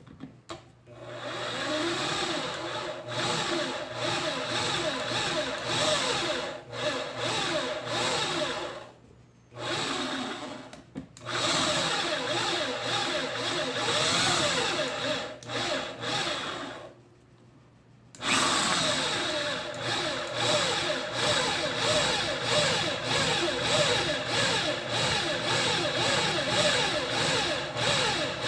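Small electric drill motor running under load, stopping briefly twice and starting up again.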